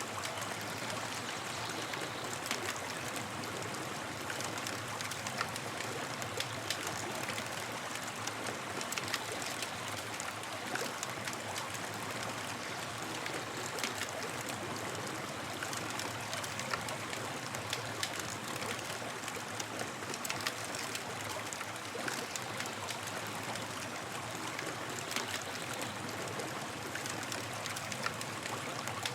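Campfire crackling: a steady hiss of burning wood, with frequent small sharp pops and snaps scattered throughout.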